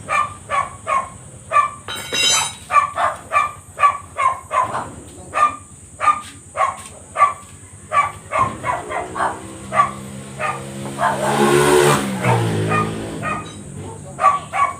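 A dog barking over and over, about three barks a second. Partway through, a motor vehicle passes, its engine note rising and then falling away.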